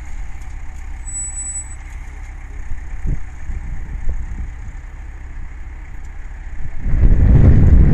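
Tractor engine running with a steady low rumble, and a brief thin high tone about a second in. Near the end, wind buffeting the microphone suddenly drowns it out.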